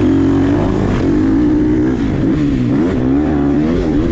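Dirt bike engine running hard on a motocross track, holding steady revs, then the revs drop and waver about two and a half seconds in before climbing back up near the end.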